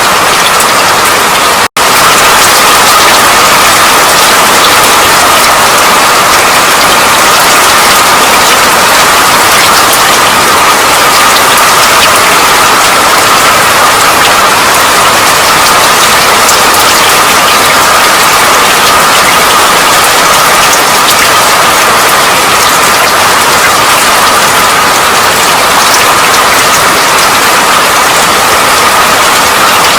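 Steady rain falling, a dense even hiss of drops, cut by a momentary dropout to silence a little under two seconds in.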